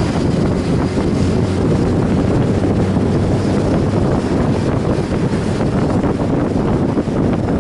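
Wind buffeting the microphone of a moving motorcycle: a steady, loud rush with a low rumble underneath.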